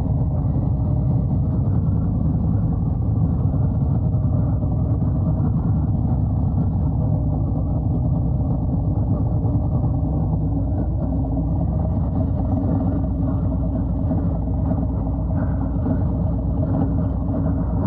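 Harley-Davidson Road Glide's V-twin engine running at steady cruising speed, with rushing road and wind noise.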